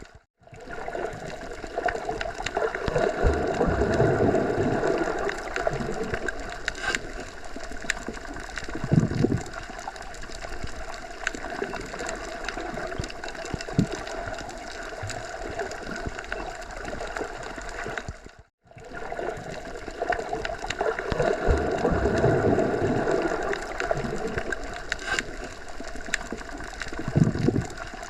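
Wind blowing through forest trees, a steady rushing with slow swells and a few stronger gusts. It cuts out for a moment about 18 seconds in, then the same stretch of wind starts over.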